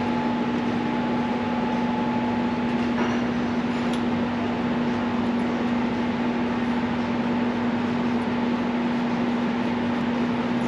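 Steady mechanical hum: a constant low tone over an even rushing noise, with a faint tap about three seconds in.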